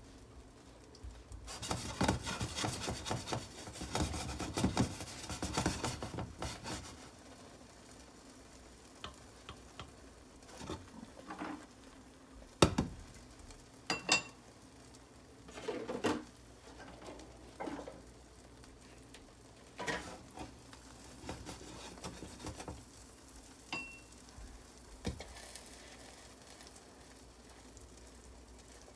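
Egg pancake frying in a nonstick pan: a stretch of dense crackling sizzle and scraping near the start, then scattered light knocks and clinks from the pan and utensils.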